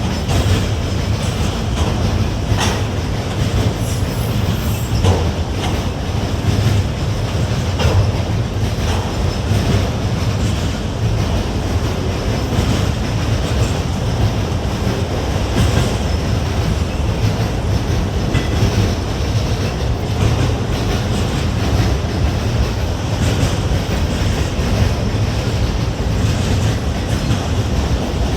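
Freight train cars rolling past, a steady low rumble with steel wheels clicking over the rail joints.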